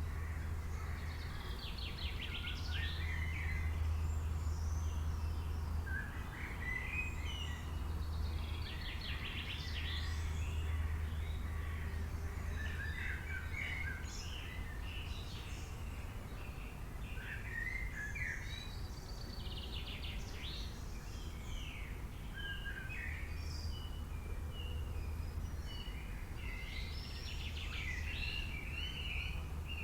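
Several songbirds calling at once: short chirps and quick trilled flurries of notes that come in bursts every few seconds. A low hum sits underneath throughout.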